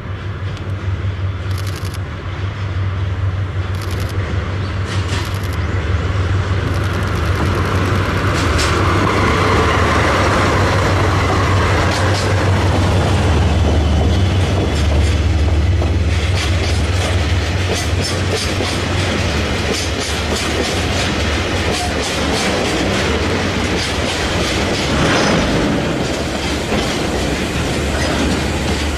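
DD51 diesel locomotive, double-headed with a DF200, passing close with a deep engine drone that builds to its loudest around ten to fifteen seconds in. A long string of tank wagons follows, its wheels clicking steadily over the rail joints.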